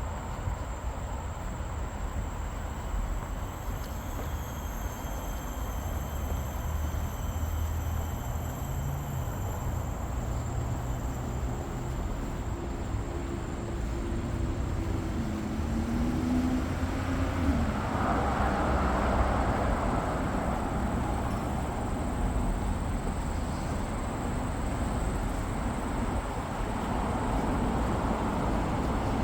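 Outdoor ambience: a steady low rumble of road or rail traffic, with a vehicle passing and swelling louder about eighteen seconds in.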